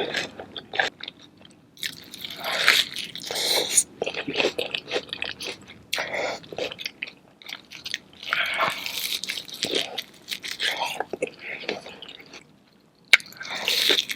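Close-miked eating of a king crab seafood boil: bites and chewing, wet and saucy, coming in irregular bouts with short pauses between them.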